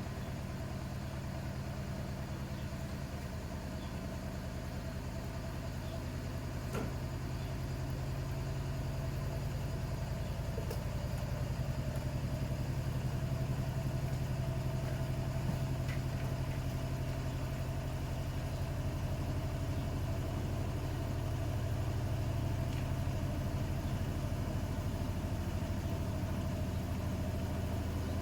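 Bosch WAT286V0 washing machine running with its EcoSilence Drive motor, a steady low hum that grows slightly louder partway through, with one faint click.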